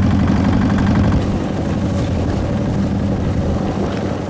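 Small boat's engine running steadily, a low pulsing hum that eases slightly about a second in.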